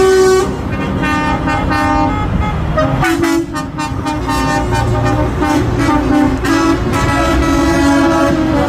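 Truck air horns blowing in long, overlapping blasts over the rumble of passing truck engines, with a brief break about three seconds in.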